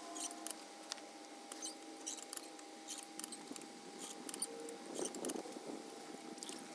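Scattered light clicks and ticks of hand tools and parts being handled on an engine, with a faint steady hum throughout and a brief rustle about five seconds in.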